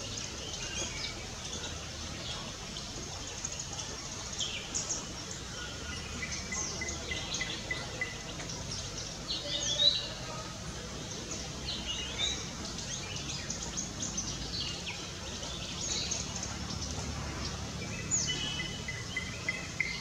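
Birdsong from several birds: many short high chirps and quick sweeping notes, loudest in a cluster about halfway through, with a rapid trill near the end, over a faint low background hum.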